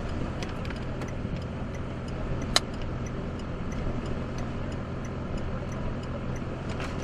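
Steady low hum of a vehicle engine running, with scattered faint ticks and one sharper click about two and a half seconds in.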